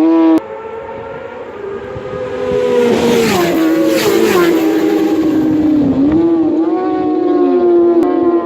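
Racing superbike engine at high revs passing at speed: the note swells to its loudest about three to four seconds in and drops sharply in pitch as it goes by, then carries on with quick dips and rises in pitch at gear changes. The sound cuts abruptly just after the start and again near the end.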